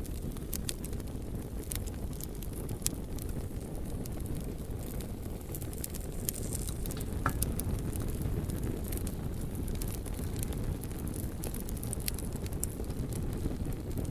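Wood fire burning: scattered sharp crackles and pops over a steady low rumble, with a brief faint whistle about seven seconds in.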